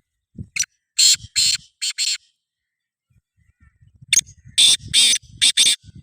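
Black francolin calling: two phrases of about five loud, harsh notes each, a couple of seconds apart, with faint low rumbling underneath.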